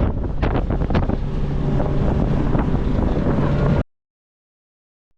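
Motorboat underway, its engine running steadily under heavy wind buffeting the microphone. The sound cuts off suddenly to silence near the end.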